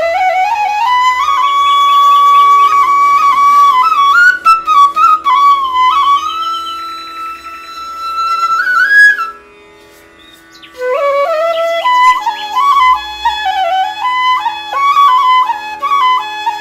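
Background music: a solo flute melody gliding between notes over a steady drone, breaking off briefly about ten seconds in before the melody resumes.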